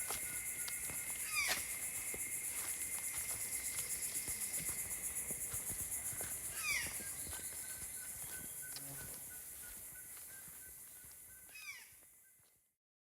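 Tropical rainforest ambience: a steady, finely pulsing high insect chorus with a couple of held thin tones beneath it. A bird gives a short downward-gliding call three times, about five seconds apart. The whole sound fades out near the end.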